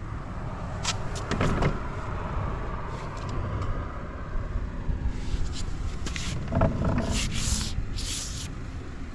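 Suzuki Address V125S scooter's single-cylinder engine running at idle, with scattered clicks and a few short hissing noises.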